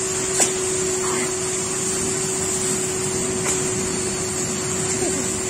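A machine runs with a steady hum and hiss, and a single sharp click comes about half a second in.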